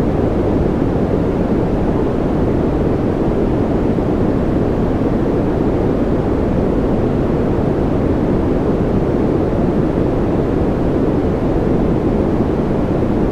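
Continuous masking noise of the white-noise kind, deep and rumbling rather than hissing, perfectly steady with no changes.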